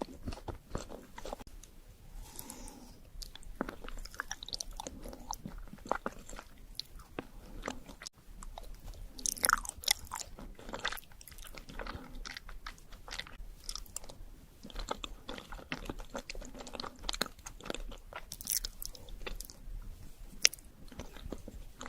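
Close-miked biting and chewing of chocolate desserts, with irregular crisp crunches and wet mouth sounds.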